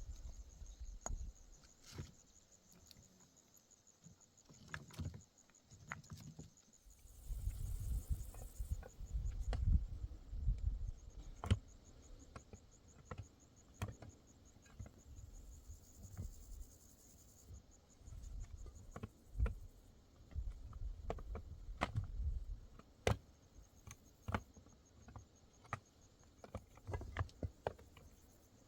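Crickets chirping steadily in the background, with scattered sharp clicks and knocks and bouts of low rumble throughout.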